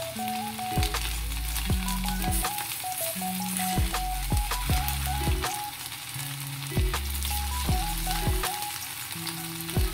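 Flour-coated chicken pieces deep-frying in a wok of oil, a steady sizzle, under background music with a deep bass beat about once a second.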